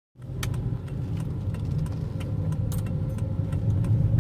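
Car driving, heard from inside the cabin: a steady low road and engine rumble with light rattling clicks scattered through it.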